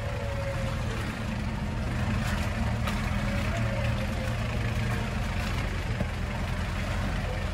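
Land Rover 4x4's engine running steadily with a low hum.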